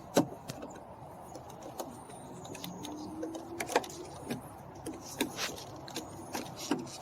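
Scattered light clicks and taps of hand-tool work on a car's door panel, around its screws, with a short faint squeak about three seconds in.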